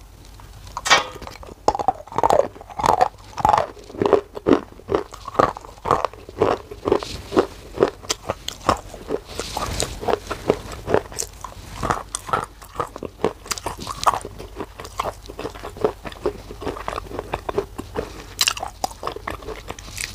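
Close-up mouth sounds of a person biting and chewing a slab of black shale clay: steady crisp crunches about two a second, with a sharp snap as a piece is bitten off about a second in and again near the end.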